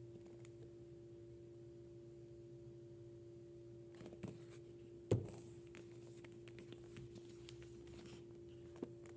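Handling sounds: scattered small clicks and taps, the loudest a sharp click about five seconds in and another near the end, over a steady low electrical hum.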